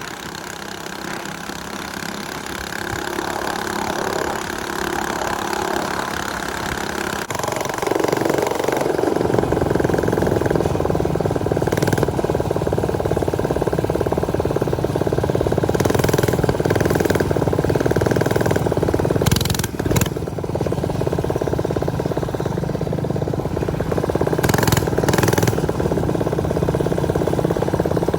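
Small off-road bike engine running during a ride, growing louder over the first ten seconds and then running steadily.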